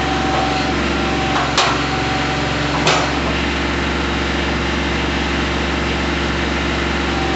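Kubota B2320 compact tractor's three-cylinder diesel running steadily, with two sharp knocks about one and a half and three seconds in.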